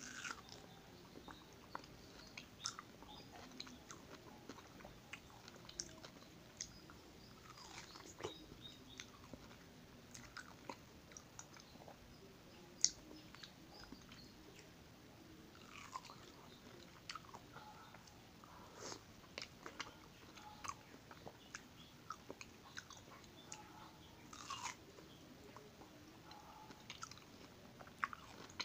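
Close-up mouth sounds of a man biting and chewing soft ripe mango slices: quiet, irregular wet clicks and smacks, with one sharper click about halfway through.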